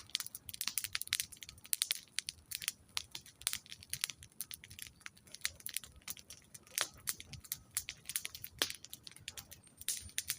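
Campfire crackling: wood burning with a dense run of irregular snaps and pops, a couple of louder cracks in the second half.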